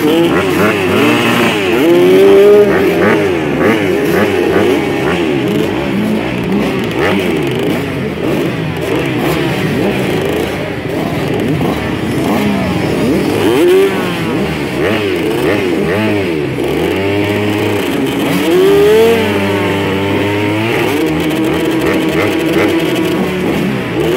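A pack of motocross bikes revving their engines together, many engine pitches rising and falling over one another, as the riders get set for and launch off the start.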